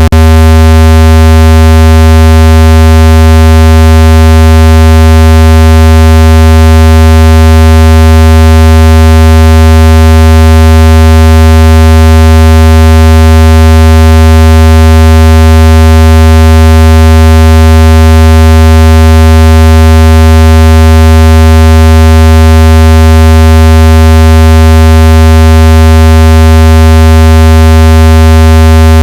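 Loud, steady, low-pitched electronic buzzing tone with many overtones, unchanging throughout. It is a water-eject tone, played at full volume to shake water out of a phone speaker.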